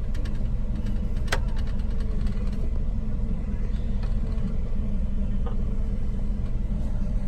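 Pickup truck's engine idling steadily, heard from inside the cab with the heater fan running. A single sharp click about a second in.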